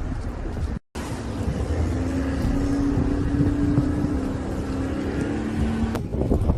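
A vehicle engine running with a steady hum over a rumble of street noise, broken by an abrupt cut to silence about a second in and another cut near the end.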